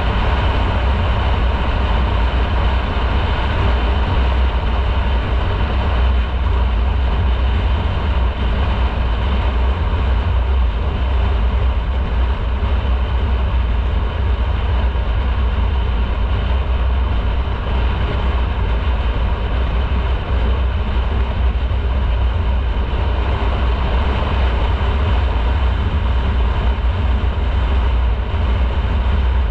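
Motorcycle riding at a steady speed: steady engine running under heavy low wind rumble on the microphone.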